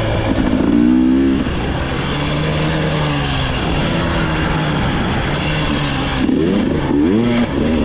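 Enduro dirt bike engine revving up and down as it is ridden, its pitch climbing sharply about a second in and again near the end.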